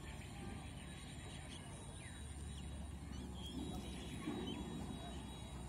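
Birds calling in the background: short chirps that slide downward in pitch, repeated irregularly about once a second, over a low steady rumble.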